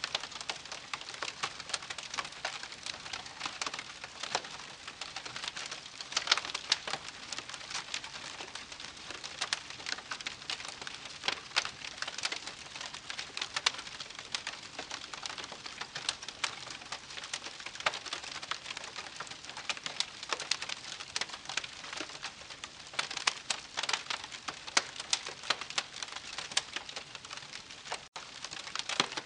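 Wood campfire crackling: a dense, irregular stream of small crackles with louder pops scattered throughout, cutting out for an instant near the end.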